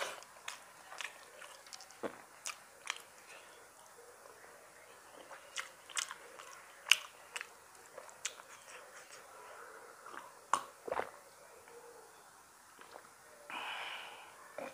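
Close-miked eating sounds of a man eating rice by hand: chewing with irregular sharp, wet mouth clicks and smacks. A longer hissing sound comes near the end.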